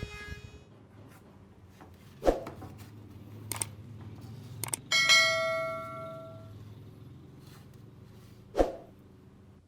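Small metal parts and tools being handled on a workbench: two sharp knocks, a few light clicks, and one bright metallic ring about five seconds in that fades over a second or so. A faint steady low hum runs underneath.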